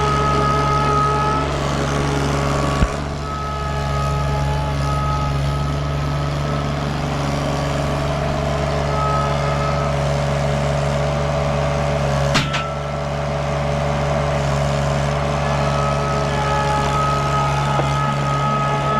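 KRT ST900HD mini skid steer running steadily, with a higher whine that comes and goes over the engine note. Two sharp knocks stand out, about three seconds in and again around twelve seconds in.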